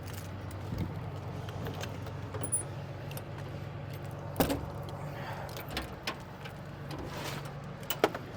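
A steady low engine hum with several sharp metallic clinks and knocks, the loudest about halfway through and another near the end.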